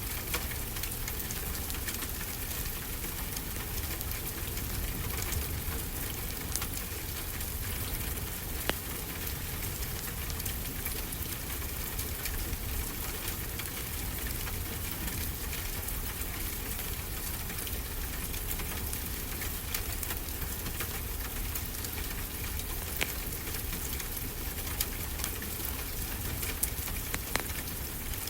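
A wood fire crackling, with scattered sharp pops, over a steady wash of ocean surf.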